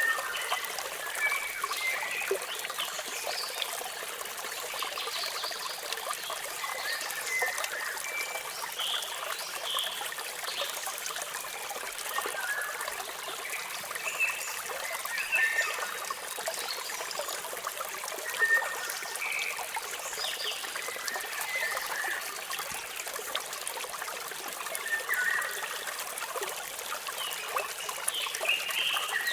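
Running water of a waterfall, a steady trickling hiss, with many birds chirping in short, scattered calls over it.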